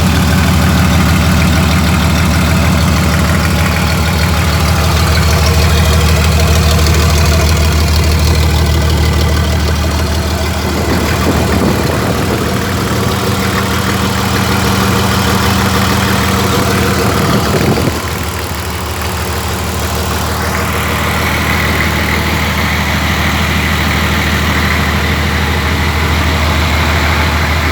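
Toyota 1HZ straight-six diesel engine idling steadily.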